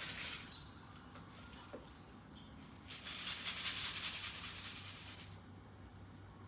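Something being shaken and rattling: a brief rattle at the start, then a dense rapid rattle of about two seconds beginning about three seconds in.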